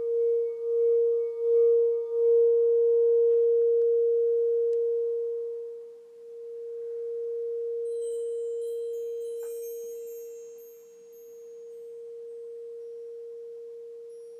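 Alchemy crystal singing bowl sounding one pure, steady tone that pulses in loudness for the first couple of seconds, then fades, swells again and fades. From about eight seconds in, short high chime notes tinkle lightly over it.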